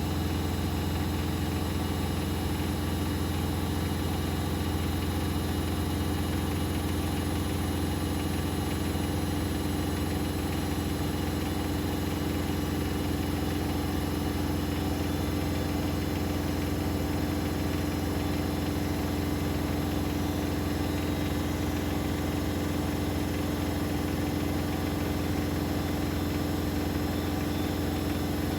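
Bosch Maxx WFL 248Y front-loading washing machine spinning at a steady high speed, likely its final spin: a loud, even motor hum that holds one pitch throughout.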